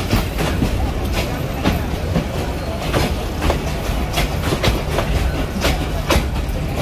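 Passenger train carriages rolling slowly along the track, a steady low rumble with irregular clacks as the wheels run over the rail joints.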